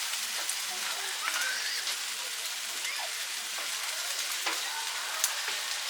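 Eel sizzling on a charcoal grill: a steady hiss with scattered sharp pops and crackles.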